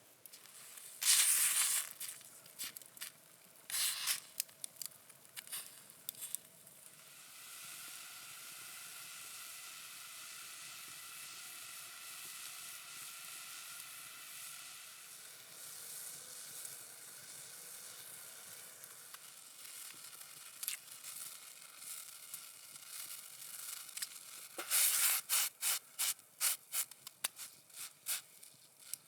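Several irregular scraping or crunching strokes, then a long steady sizzling hiss with a faint high whine in it, ending in a quick run of sharp crunching strokes, a few a second.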